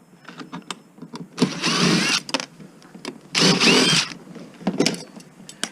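A handheld power tool's motor run in two short bursts, each just under a second, while screws are backed out of a washing machine's motor mount. Light metallic clicks and knocks come between the bursts.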